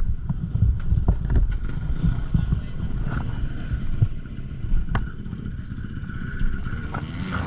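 Wind buffeting and handling knocks on a GoPro microphone, with dirt bike engines running in the background.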